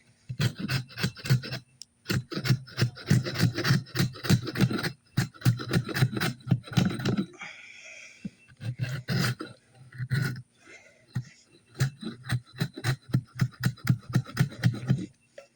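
Quick, repeated scraping strokes of a hand tool on oak as the bark is worked off a handle blank, in runs of a few seconds with short pauses between.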